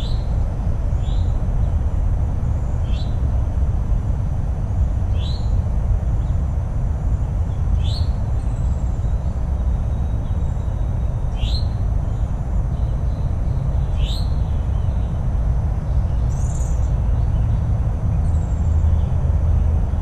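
A songbird repeats a single short, downward-sliding call about seven times, one to three seconds apart, over a steady low background rumble.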